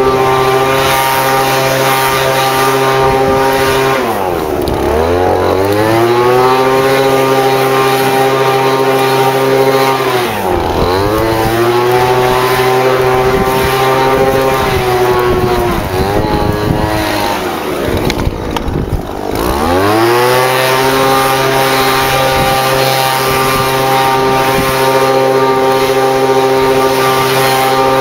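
Small gas engine of lawn equipment running steadily at high speed. Its pitch drops sharply and climbs back four times, as the engine slows down and speeds up again.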